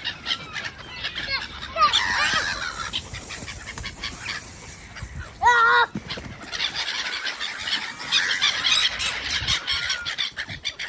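A flock of small birds chirping busily. About halfway through, a larger bird gives one loud, wavering, harsh call.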